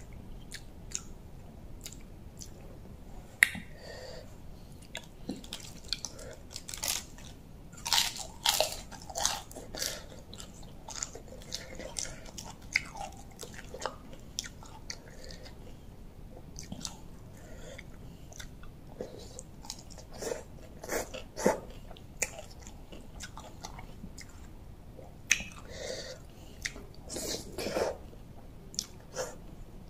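A person chewing and biting a mouthful of spicy pounded rice-noodle salad close to the microphone, with irregular sharp clicks and wet smacks through the chewing.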